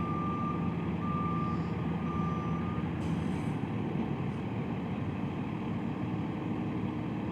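A truck's reversing alarm beeping about once a second, three beeps that stop about three seconds in, over a truck engine running steadily.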